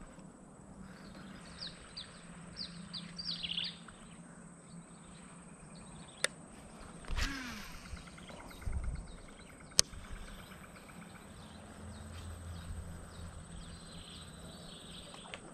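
Bird chirping in a quick run of short falling notes a couple of seconds in, over a faint steady outdoor background. Later come two sharp clicks and a few soft low thuds.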